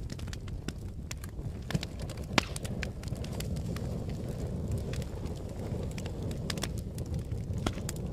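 Fire burning with a steady low rumble and scattered sharp crackles and pops, one louder pop about two and a half seconds in.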